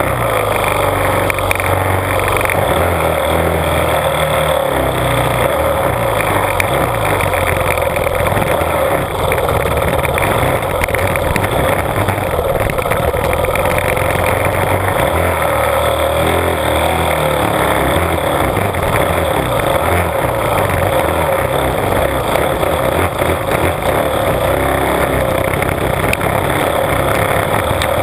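Honda CRF450R's single-cylinder four-stroke motocross engine running under way on a dirt trail, heard close up from the front mudguard, its note rising and falling as the throttle is worked.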